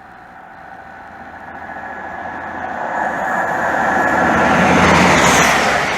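High Speed Train (InterCity 125) led by a Class 43 diesel power car, approaching and running through the station at speed. The rush of engine and wheels on the rails grows steadily louder, peaking about five seconds in.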